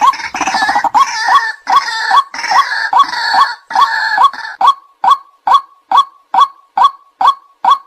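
White-breasted waterhen calling. Short, loud croaks repeat about twice a second, over rougher overlapping croaking in the first half. From about halfway the croaks come alone in an even, steady rhythm.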